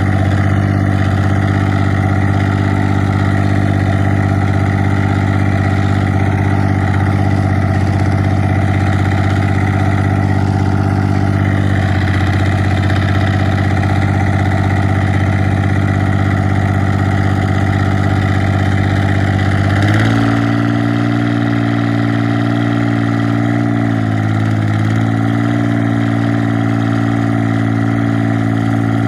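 Straight-piped 1984 John Deere 430's three-cylinder diesel engine running steadily. About two-thirds of the way through, the engine speed steps up and holds, with a brief dip a few seconds later.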